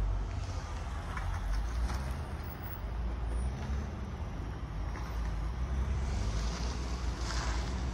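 Freight train of hopper cars giving a low, steady rumble.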